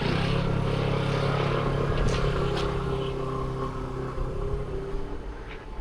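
A motor vehicle's engine running with a steady hum that slowly fades away, with a few faint clicks over it.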